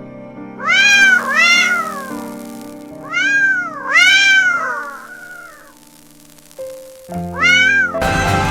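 A cat meowing five times over background music: two meows about a second in, two longer ones around the middle, and one more near the end, each rising and then falling in pitch.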